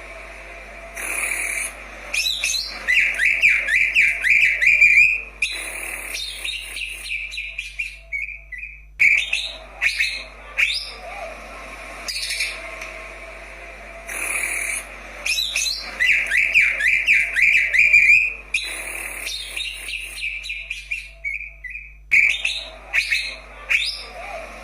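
Leafbird (cucak ijo) singing: fast warbling runs and clear whistled notes with sweeping calls between them, the same series of phrases coming round again about halfway through.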